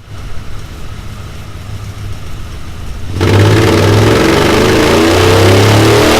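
Honda CRF1000L Africa Twin's parallel-twin engine running through a Delkevic oval carbon fibre exhaust on a dyno. It runs low and steady at first, then about three seconds in the throttle opens: it gets much louder and its pitch climbs steadily as the revs rise in a dyno pull.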